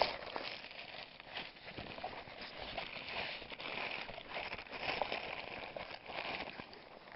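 Irregular rustling and light handling noises of someone rummaging through a backpack's contents to find a fire kit.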